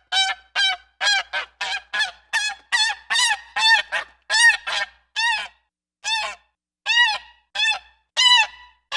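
An animal calling in a rapid series of short honking calls, about two a second, each rising then falling in pitch, spacing out a little after the middle.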